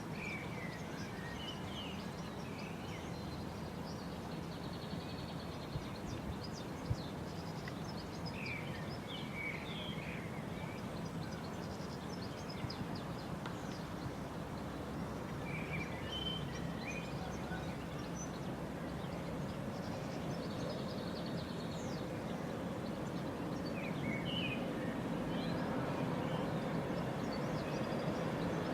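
Steady outdoor background rumble with a bird singing short chirping phrases a few times, several seconds apart; the rumble grows louder near the end.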